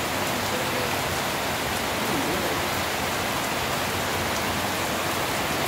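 Steady heavy rain, a dense even hiss of falling water.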